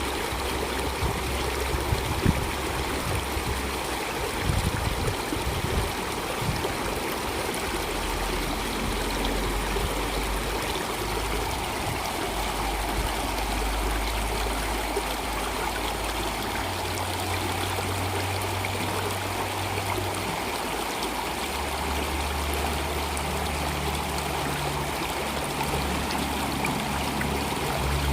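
Water flowing steadily in a stream.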